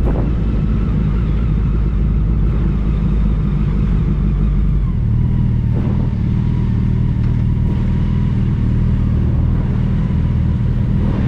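Motorcycle running on the move, with a steady deep rumble. The engine note shifts about halfway through.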